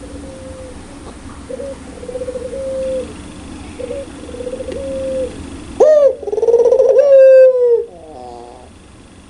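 Puter pelung (Barbary dove) cooing in a series of short soft coos, then about six seconds in a loud 'ngakak' laughing call of about two seconds, with a rapid rolling warble in the middle, ending in a short falling series of notes.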